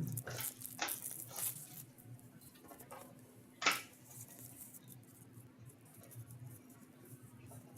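Hands opening a box of trading cards: packaging and paper rustle and tear. There are several crinkling strokes in the first two seconds and one sharp rip about three and a half seconds in, then quieter handling.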